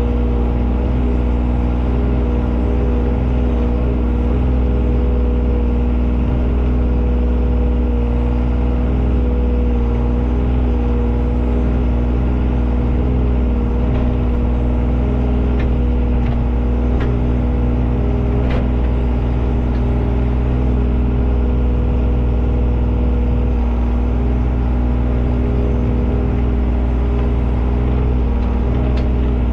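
An engine running steadily at a constant speed, with a few faint clicks or knocks about halfway through.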